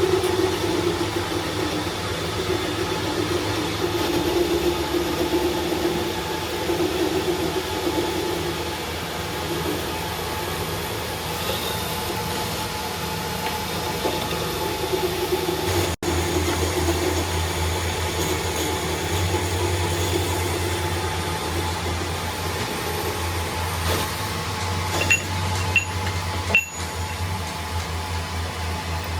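A machine running steadily with a constant hum, the low part of the hum growing stronger about halfway through; a few light clicks near the end.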